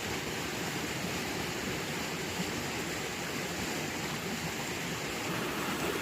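A steady rushing, hissing noise that does not change.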